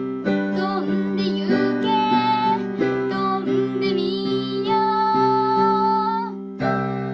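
Piano playing a slow song melody over held chords, with a girl's voice singing along.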